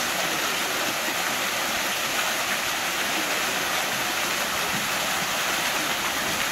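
Waterfall rushing steadily, with no splash or break in the sound.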